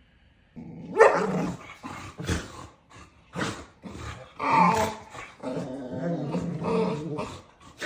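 A dog barking over and over in a long run of short, pitched vocal sounds, starting about half a second in.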